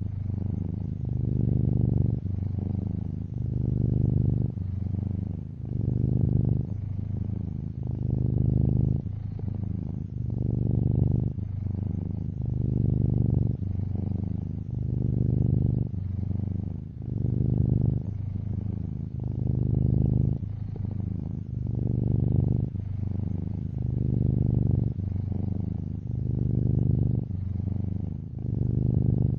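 A tuxedo cat purring close up. The low purr swells and fades in a steady cycle every one to two seconds as the cat breathes in and out.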